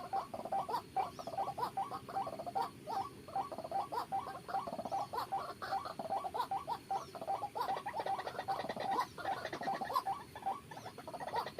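White-breasted waterhen calls, a rapid run of short repeated notes, several a second, going on without a break.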